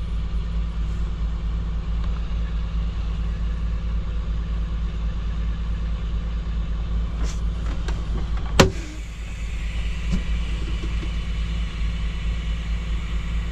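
Semi-truck diesel engine idling steadily. About eight and a half seconds in comes a sharp click, and then a steady hiss sets in as air flows into the dead truck's brake system.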